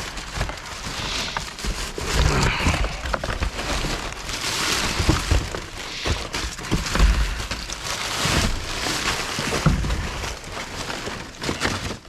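Rummaging through trash in a dumpster: plastic garbage bags rustling and crinkling, with scattered clicks and a few dull thumps.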